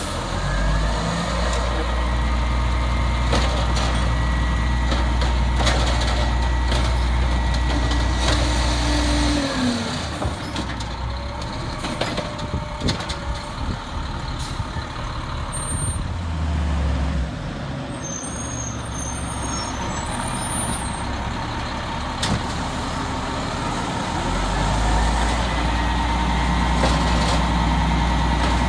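Peterbilt 320 garbage truck's diesel engine running at raised revs, dropping back about nine or ten seconds in, picking up briefly in the middle, and rising again near the end.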